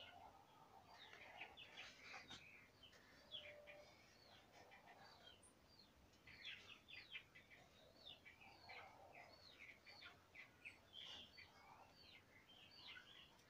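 Faint chorus of small birds chirping, many quick high chirps that drop in pitch, overlapping all through.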